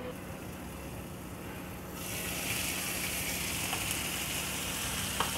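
Chicken pieces frying in a non-stick pan, muffled under a glass lid at first; about two seconds in, with the lid off, the sizzling turns suddenly louder and stays steady.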